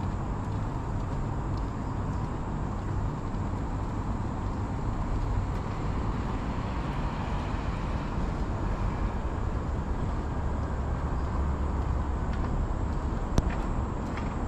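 Steady rumble of road traffic passing, with one sharp click near the end.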